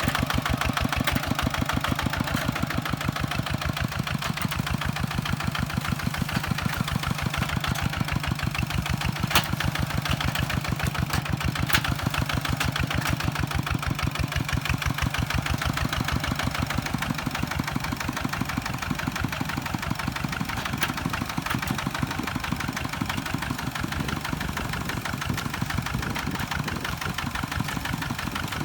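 Kubota tractor's diesel engine running steadily at an even speed, with a couple of short sharp knocks about 9 and 12 seconds in.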